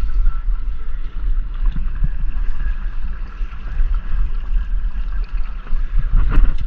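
Wind buffeting the microphone in a low, uneven rumble, with a single knock about six seconds in.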